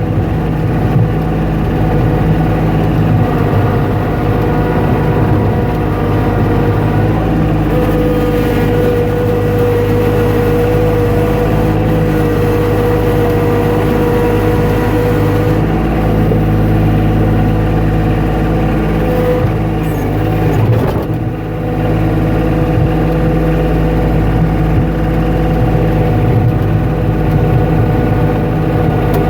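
An engine running steadily at an even pitch, with a brief dip in level about 21 seconds in.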